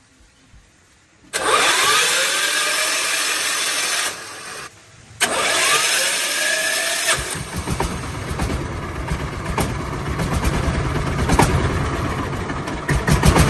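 Freshly rebuilt tractor engine being cranked twice, each time with a rising whine as it spins up. On the second try, about seven seconds in, it catches and keeps running with an even, low firing beat.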